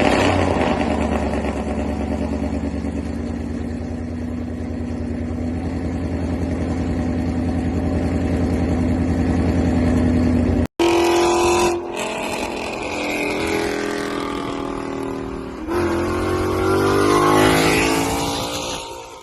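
Car engine held at high revs, its pitch slowly climbing, then cut off abruptly about ten seconds in. It is followed by another car engine revving up and down, its pitch rising again near the end before it fades.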